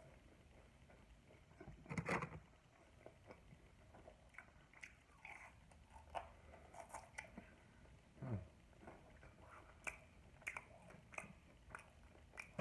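A person chewing food close to the microphone, with small wet mouth clicks and smacks scattered throughout. There is a louder bite about two seconds in.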